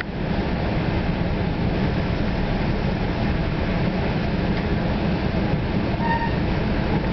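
Inside a New Jersey Transit Comet VI multilevel coach running at speed: a steady, loud rumble of the wheels and car body on the rails, with a brief high-pitched squeal about six seconds in.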